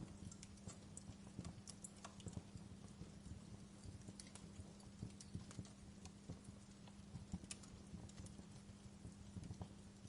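Wood fire crackling in a fireplace: faint, irregular small pops and snaps over a soft hiss, with a steady low hum underneath.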